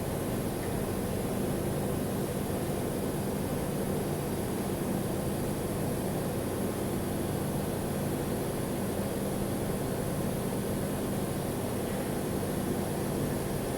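Welding on 4-inch stainless steel: a steady hum with a constant hiss over it that does not change.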